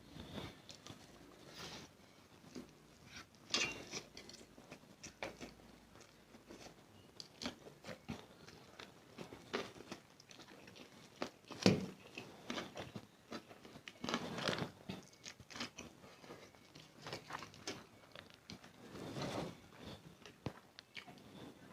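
Close-up eating sounds of a person chewing and biting spicy instant noodles: irregular wet clicks and smacks, with a few louder moments, the sharpest about halfway through.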